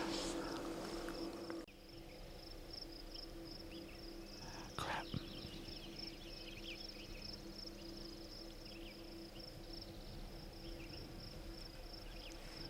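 Faint outdoor ambience: a steady, high pulsing trill with scattered short bird chirps, and one brief rustle about five seconds in.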